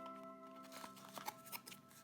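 Faint held notes of background music slowly fading, with a few light clicks and rustles of a plastic blind-bag toy package being handled.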